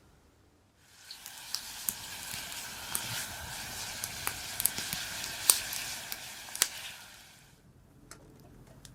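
Cooking over a wood campfire: a steady sizzling hiss with sharp crackling pops, fading in about a second in and fading out near the end.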